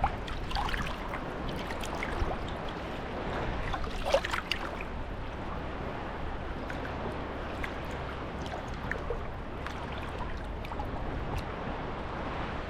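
Small sea waves lapping and washing at the shoreline, a steady wash with light splashes and trickles scattered through it.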